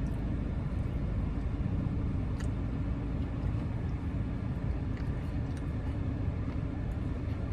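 Steady low rumble of a car, with a few faint light clicks.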